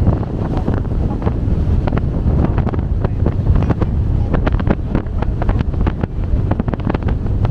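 Wind buffeting the microphone aboard a moving ferry, with rapid crackling gusts over the low rumble of the boat and the water.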